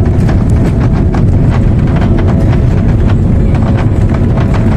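Cabin noise of an Airbus A330 rolling on the ground just after landing: a loud, steady low rumble from the wheels and Rolls-Royce Trent 700 engines, with irregular knocks and rattles from the airframe and cabin fittings.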